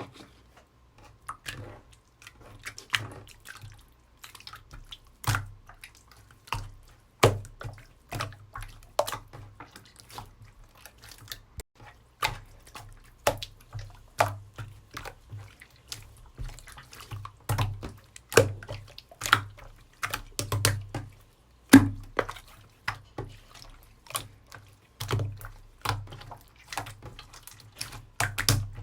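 Slime being squished, pressed and stretched by hand, making irregular wet clicks and pops, about one or two a second.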